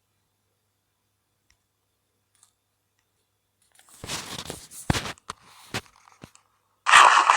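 Silent for about four seconds, then close-up crackling with a few sharp clicks; near the end a loud, dense crunching begins.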